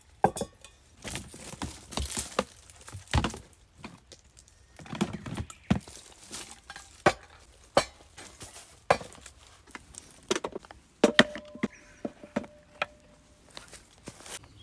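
A string of irregular knocks and clicks, with a short ringing tone about eleven seconds in.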